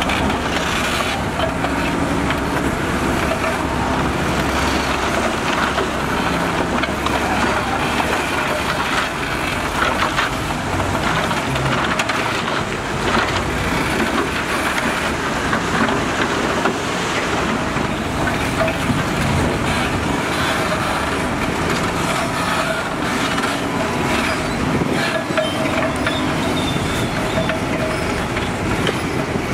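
Heavy earthmoving machinery working: engines running in a steady, loud mechanical din with frequent knocks and rattles.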